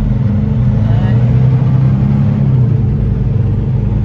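Semi truck's diesel engine running steadily while driving, a low continuous hum heard from inside the cab, swelling slightly about a second in.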